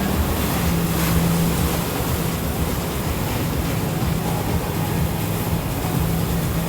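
Motorboat engine running steadily with a low hum, over the rush of water and wind noise.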